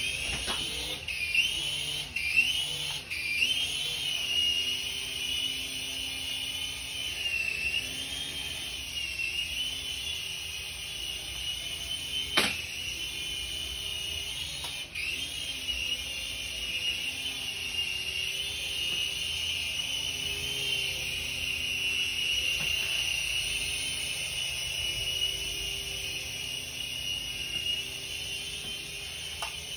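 Sky-rover toy RC helicopter's small electric motors and rotors running in flight: a steady high-pitched whine whose pitch wavers up and down as the throttle changes. A few clicks near the start and one sharp click about twelve seconds in.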